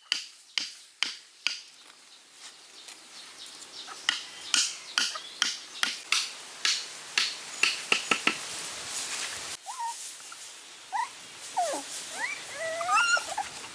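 A run of sharp taps, about two to three a second, stops at a cut. It is followed by several short, high whines that slide up and down, like puppies whimpering.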